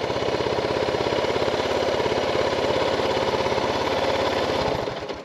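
Suzuki DR650's single-cylinder engine idling with a steady, rapid thumping, then switched off about four and a half seconds in.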